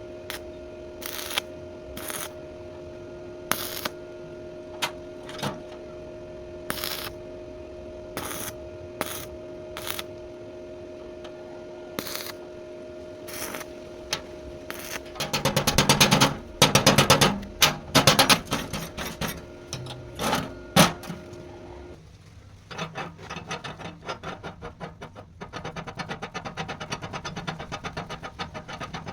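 Metalworking tool noises: scattered sharp taps and clicks over a steady hum, then a few seconds of loud, rapid rattling about halfway through, then a fast, even mechanical rattle.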